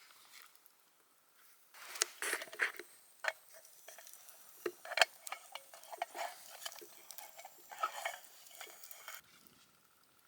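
Irregular clinks and scrapes of a utensil against cookware, starting about two seconds in and stopping near the end.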